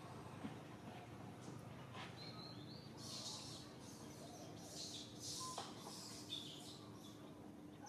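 Faint outdoor ambience with a few short, high bird chirps, and soft rustling bursts through the middle of the stretch.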